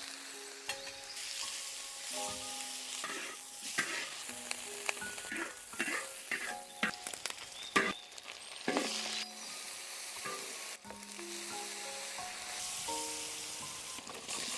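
Food sizzling as it is stir-fried in a wok, with a metal spatula clinking and scraping against the pan at irregular moments. Light background music with short held notes plays over it.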